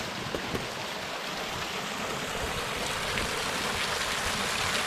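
Small creek waterfall: a steady rush of falling and splashing water, growing slightly louder.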